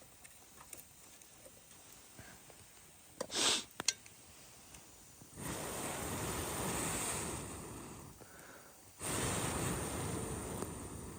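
Faint scattered clicks and a brief rush of noise a little over three seconds in, then two long rushes of air that start suddenly about five and nine seconds in, the first fading out gradually.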